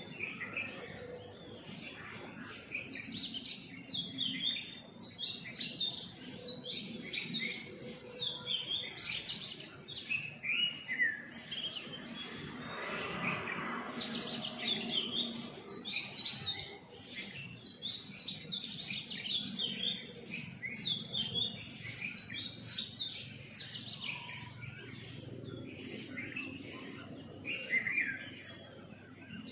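Several small birds chirping and twittering, with many quick, high, overlapping calls and short trills that keep going without a break.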